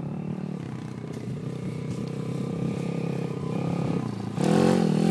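Pit bike engine running as the bike rides across open ground, steady at first, then louder from about four seconds in, with the revs rising and falling as it comes closer.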